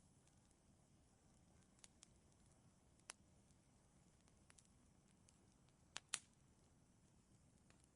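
Wood fire crackling in a fireplace: scattered sharp pops and snaps over a faint low hiss, the loudest a quick pair of snaps about six seconds in.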